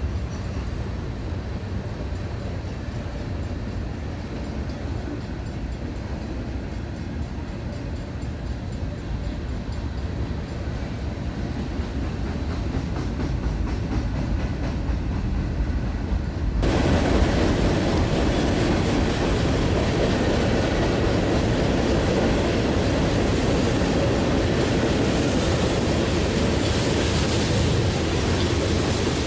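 Freight train rolling past: a steady rumble of wheels and cars on the rails, which abruptly gets louder and brighter about two-thirds of the way in.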